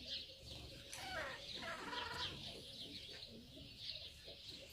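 Grey junglefowl giving a pulsing clucking call about a second in, lasting just over a second, over many small birds chirping repeatedly.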